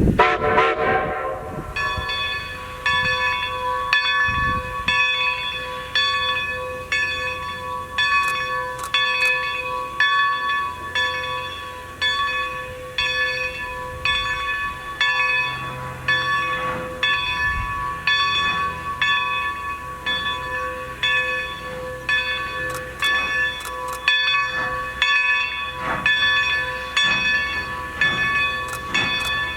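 Steam locomotive's bell ringing steadily, struck about once a second.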